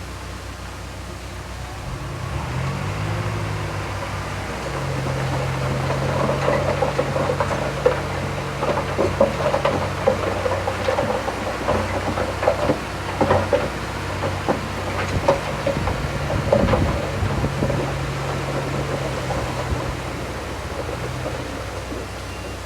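Bulldozer's diesel engine picking up revs about two seconds in and running steadily under load, with irregular clanking and clattering through the middle, typical of steel tracks working while pushing soil.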